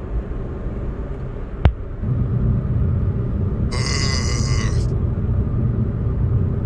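A man's deep, throaty growl, a Frankenstein-monster grunt, low and continuous from about two seconds in, passed off as clearing his throat. A single click comes just before it starts, and a short buzzy higher tone cuts in about four seconds in.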